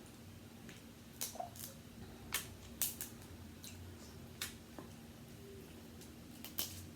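Close-miked eating of a seafood boil: a handful of sharp clicks and snaps, about five, the loudest a little under three seconds in.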